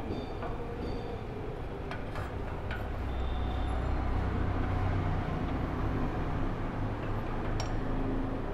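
Steady low vehicle rumble in the background, with a few light metallic clinks as a motorcycle exhaust pipe is fitted back onto the cylinder head.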